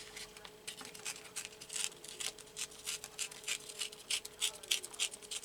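Paper being worked by hand: a run of short, dry, scratchy rustles, about three or four a second, over a faint steady hum.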